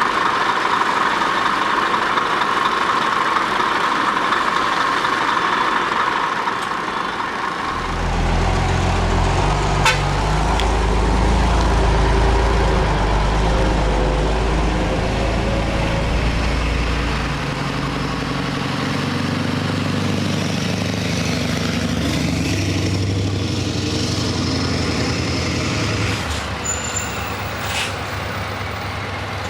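Heavy truck sounds: a steady traffic rush, then from about eight seconds in a deep diesel-like engine running, its pitch stepping and shifting as it pulls, easing off near the end.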